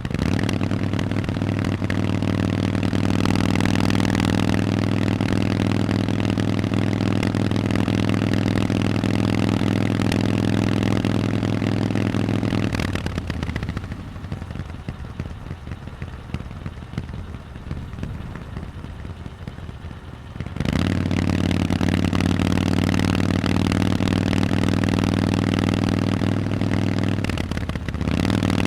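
Harley-Davidson Forty-Eight's air-cooled 1200 cc V-twin running through Vance & Hines exhausts at a steady, even note under throttle. About 13 seconds in the engine note falls away to a weaker rushing sound of road and wind for several seconds, then the exhaust comes back on strongly and holds steady, with a short break near the end.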